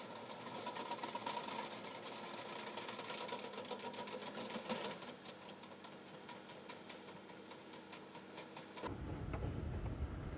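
A motor running with a fast, irregular mechanical ticking. Near the end it cuts to a deeper, louder rumble.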